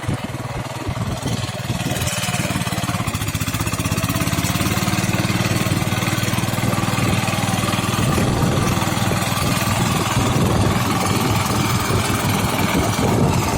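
Tractor diesel engine running steadily under load with a fast, chugging beat, getting a little louder about two seconds in.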